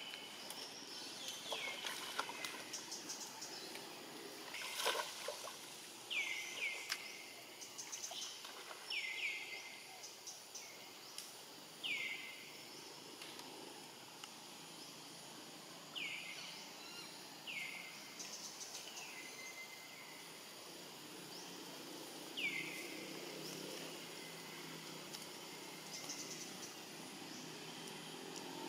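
A bird repeating a short call that falls sharply in pitch, about nine times at intervals of a few seconds, over a steady outdoor background hiss. A few sharp clicks come about five seconds in.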